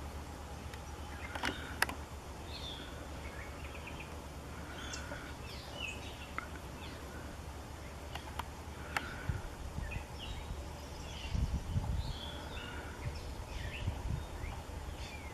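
Several songbirds chirping and calling in short, scattered notes over a steady low background hum. A few sharp clicks come through about 2 and 9 seconds in, and there are low rumbling bumps about two-thirds of the way through.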